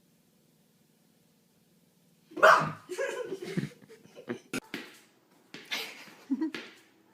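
A pet animal's calls: a loud, sudden one about two seconds in, followed by a string of shorter ones.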